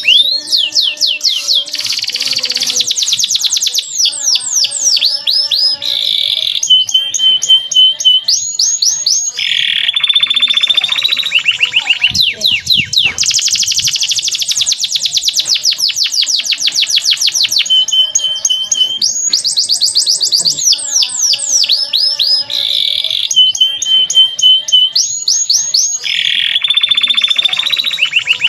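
Male canary singing a continuous song. Fast trills of quickly repeated falling notes alternate with buzzy rolls and steady held whistles, with no pause.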